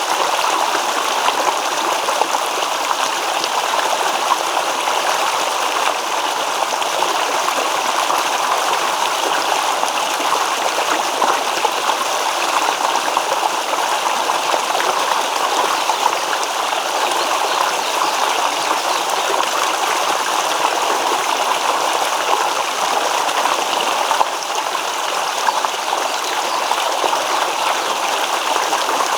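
A small stream babbling and trickling over stones, a steady rushing of water with fine splashy detail.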